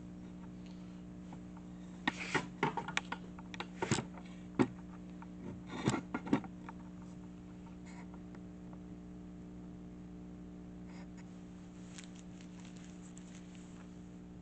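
Handling noise: a cluster of sharp clicks and knocks from about two to seven seconds in, and a few fainter clicks near the end, over a steady low hum.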